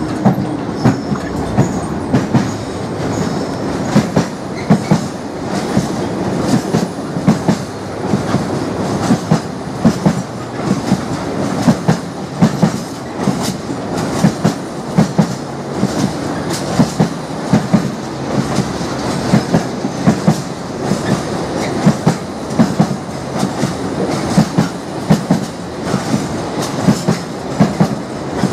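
Freight train of flat wagons running past close by: a steady rumble with loud, regular clickety-clack as the wagon wheelsets cross the rail joints, the clacks often coming in quick pairs.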